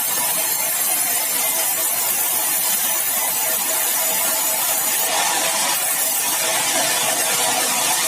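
Sawmill saw running steadily: a constant high hiss with a faint steady whine under it.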